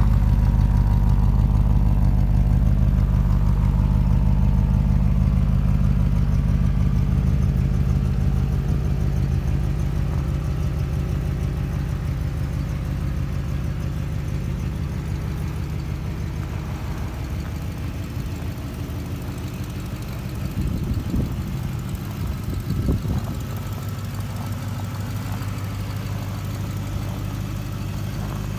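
1965 Oldsmobile 442's 400 cubic-inch V8 idling steadily through its exhaust. It is loudest at the rear by the tailpipes and grows fainter as the listener moves along the side to the front of the car.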